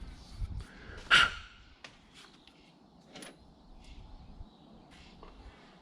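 Hydraulic hose fittings being handled during reassembly: one sharp clank about a second in, then a few light clicks and taps.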